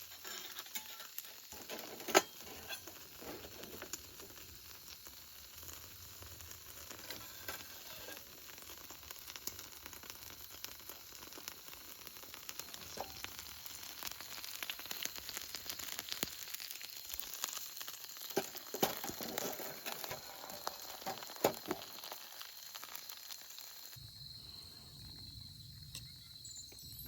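Food sizzling as it fries in a pan, with scattered sharp pops and crackles, one louder pop about two seconds in. Near the end the sound thins to a fainter high hiss.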